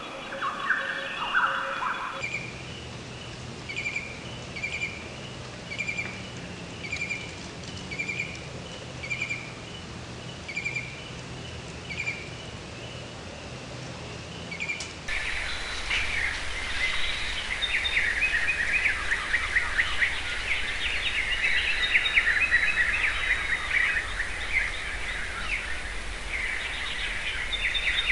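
Birds calling: first one short, high chirp repeated roughly once a second, then, about halfway through, a dense chorus of many birds singing and chattering together.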